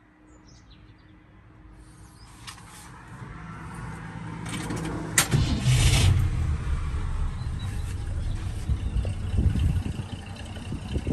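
A motor vehicle engine running with a low rumble that builds up over the first few seconds, a sharp click about five seconds in, then settles into a steady rumble.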